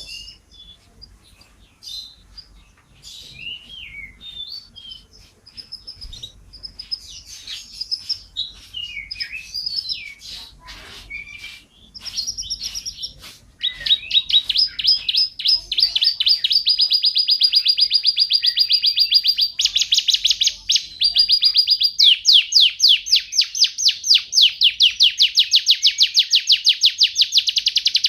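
Domestic canary singing: scattered short chirps and whistled glides at first, then from about halfway through long, very fast rolling trills that are louder. The trills shift pitch a couple of times.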